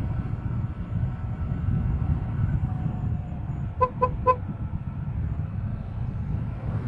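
Steady wind and road rumble on a helmet-mounted action camera mic while riding a motorcycle, with three quick vehicle horn toots about four seconds in.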